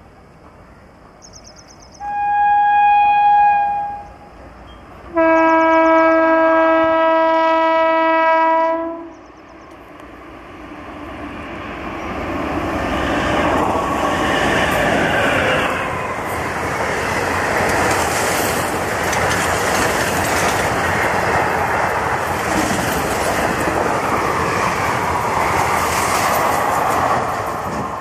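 Electric locomotive of an Indian Railways express sounding its horn twice: a short, higher note, then a longer, lower blast of about four seconds. The train then runs through at speed, a rising rush of wheels on rail with rapid clattering as the coaches pass.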